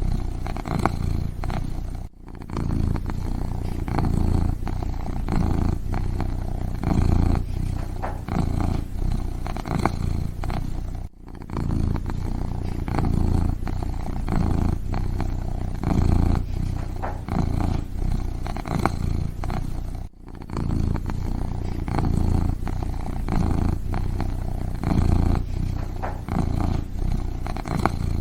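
Kitten purring close up, a continuous low rumble that swells and ebbs with each breath. It breaks off briefly about every nine seconds.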